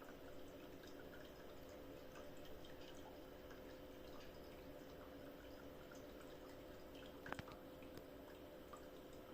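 Water-vapour (steam-effect) 3D fireplace running: a faint steady hum with scattered small drips and gurgles of water, and one louder click about seven seconds in.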